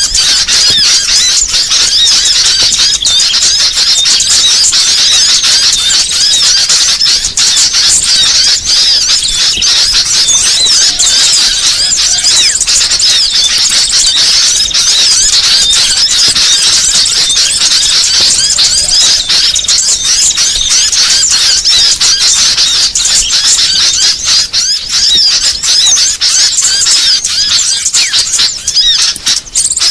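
Bird-lure recording of many small songbirds calling at once: a loud, unbroken chatter of high, overlapping chirps and squeaks, made to draw small birds in.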